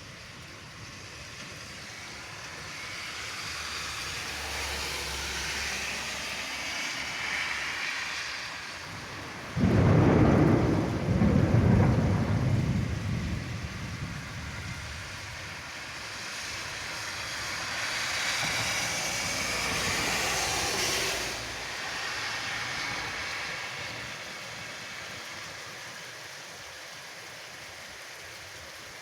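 Thunderstorm: steady rain throughout, with a sudden loud thunderclap about ten seconds in that rumbles on for a few seconds, then a second, softer roll of thunder that swells and dies away about two-thirds of the way through.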